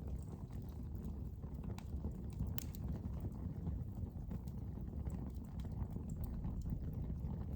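Wood fire burning in a fireplace: a steady low rumble of the flames with scattered irregular crackles and pops, one sharper pop about two and a half seconds in.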